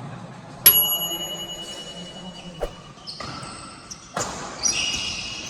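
Badminton rally in a large hall: a loud, sharp racket strike on the shuttlecock about a second in, with a brief ringing of the strings, followed by three softer hits, then high squeaks near the end.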